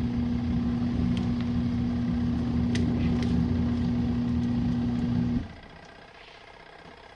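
Compact RV washing machine's wash motor running steadily with a strong hum as it churns the wash load, then cutting off abruptly about five seconds in, the pause in its run-and-stop wash cycle.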